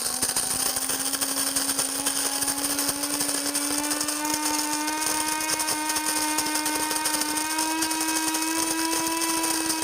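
Cuisinart Supreme Grind (DBM-8) electric burr coffee grinder running on a medium grind setting. Its motor gives a steady hum over a gritty crackle of beans being ground, and the pitch creeps slowly upward as it runs.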